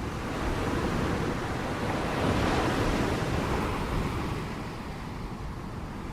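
Ocean waves breaking on a shore: a wash of surf that swells to a peak a couple of seconds in and then eases off, over a steady low rumble.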